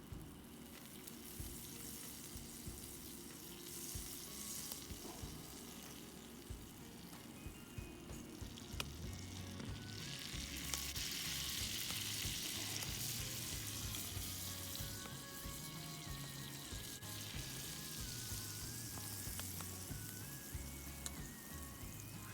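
Food sizzling and frying in a pan over a campfire, with scattered pops. It grows louder about ten seconds in. Soft background music comes in under it.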